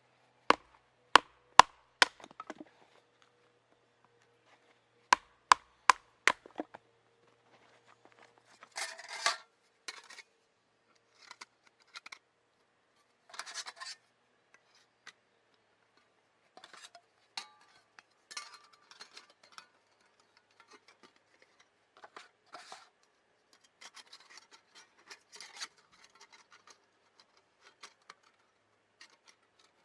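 Wood being worked by hand for a small campfire. It opens with two quick runs of sharp knocks, four and then three, followed by intermittent scraping and rustling.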